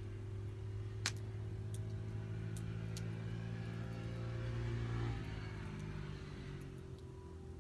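A passing vehicle rises and then fades away about five to seven seconds in. A few sharp crackles of the burning wood fire stand out over it.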